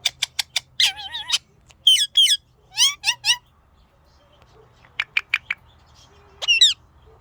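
Pet ringneck parrot chirping and calling: quick runs of short, sharp chirps alternating with warbling calls that rise and fall in pitch, pausing for a second or so in the middle, with a rising squawk near the end.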